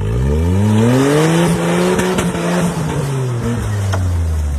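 Off-road vehicle engine revving up hard from the start, held at high revs for about a second, then winding slowly back down.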